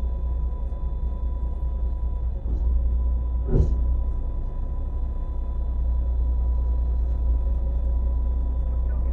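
Boat engine running steadily with a heavy low rumble and a thin steady whine over it, plus a single knock about three and a half seconds in.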